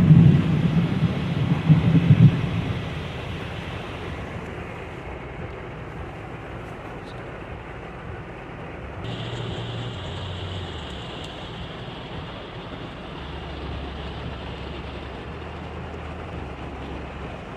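Heavy downpour: steady hiss of torrential rain, with a loud low rumble in the first two or three seconds.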